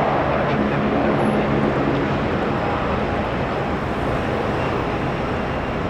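Airbus A380 jet engine noise: a steady wash of sound, with a low hum under it that fades out about two seconds in.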